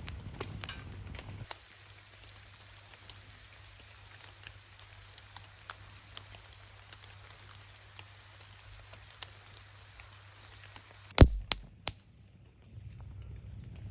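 Light rain pattering on a tarp, with scattered single drops tapping. About eleven seconds in come three sharp knocks, the first the loudest.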